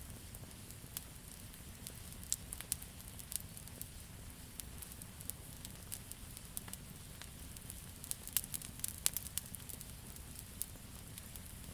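Wood campfire crackling: irregular sharp pops and snaps over a steady low rumble of the flames, with a flurry of pops about eight seconds in.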